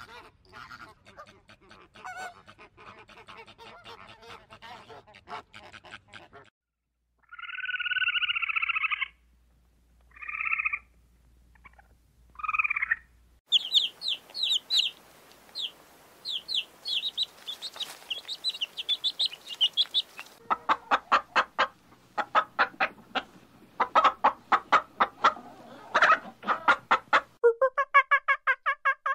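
Bird calls, one after another: first a few long, loud calls, then baby chicks peeping fast and high, then a fast run of short calls.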